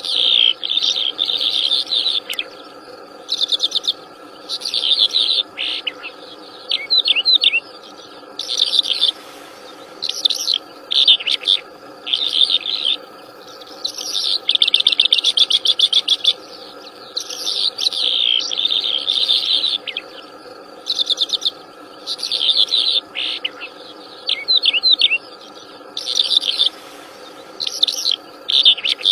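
A wild songbird singing in repeated short bursts of rapid, high chirps and trills, a new phrase every couple of seconds, over a steady background drone.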